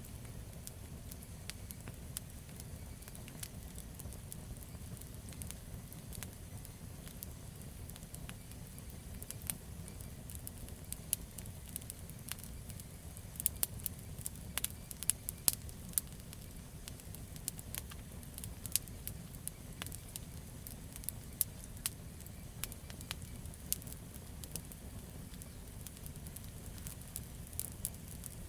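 Wood campfire burning with a steady low rumble and frequent sharp crackles and pops, busiest about halfway through.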